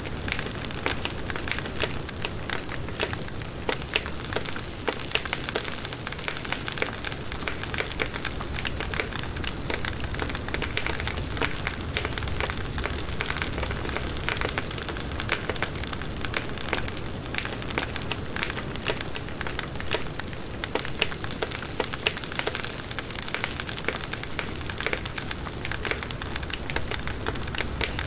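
Firewood burning in a campfire, with many small irregular crackles and pops over a steady hiss.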